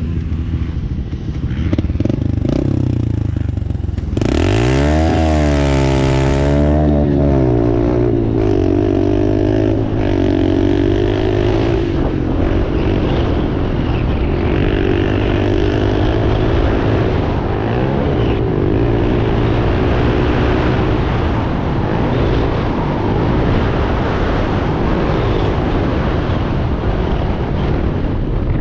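Dirt bike engine revving hard, with a quick rise and fall in pitch about four to seven seconds in, then running steadily at high revs.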